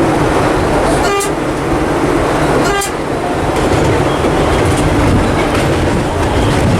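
Vintage subway train running with a loud, steady rumble, and two short horn toots, about a second and three seconds in.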